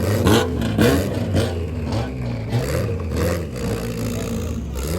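Honda four-cylinder drag cars accelerating hard down the strip, their engines revving up and down in pitch through the gears. Sharp cracks come about twice a second for the first three seconds or so, and the engine sound eases off slightly near the end.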